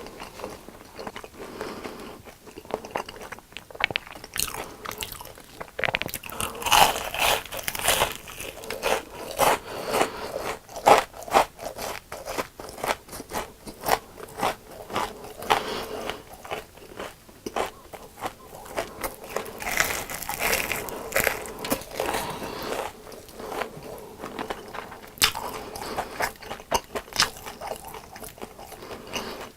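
Close-miked eating sounds: crisp deep-fried food being bitten and chewed, with irregular sharp crunches and louder bursts of crunching about a third of the way in and again about two-thirds in.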